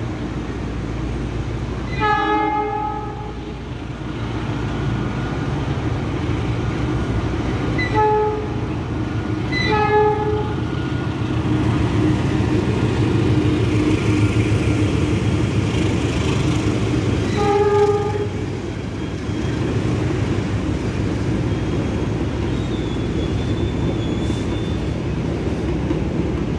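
Train horn sounding four times on one note: a blast of about a second and a half, then three short toots spread over the next eight seconds, over the steady rumble of a train running through the station.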